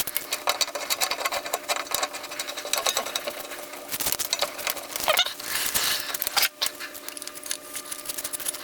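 Rapid clicking and rattling of a stainless steel shower hose and its threaded metal fittings being handled and screwed on.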